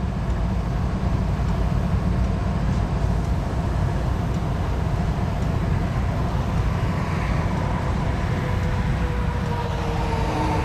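Steady low engine rumble, with a faint tone that comes in about halfway through and drifts slightly lower.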